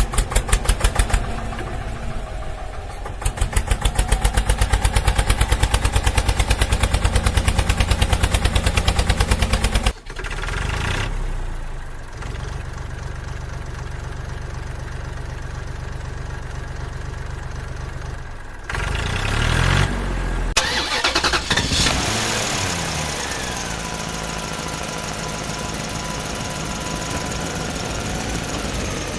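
Heavy vehicle engine running: a fast, even chugging for about the first ten seconds, then a steadier run, with the engine note rising and falling as it revs a little over halfway through.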